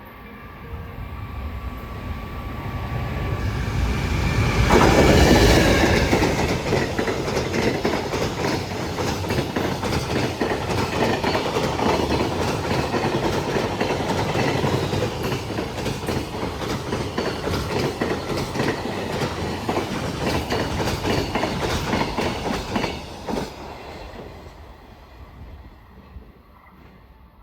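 Freight train passing: the sound builds to its loudest about five seconds in, then a long string of wagons rumbles and clacks over the rail joints. It fades away over the last few seconds.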